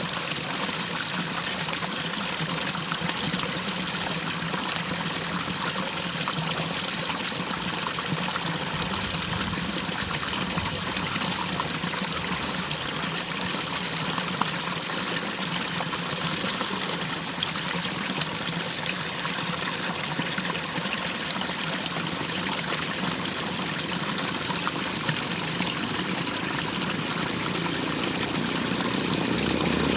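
Steady rush of running water in a drainage ditch, even and unchanging throughout.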